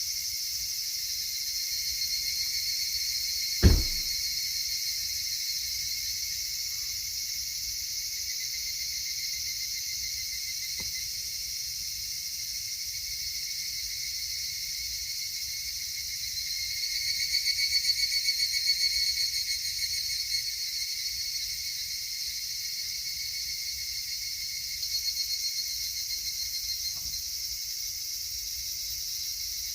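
Steady high-pitched chorus of insects chirping, swelling louder for a few seconds around the middle. A single sharp knock about four seconds in.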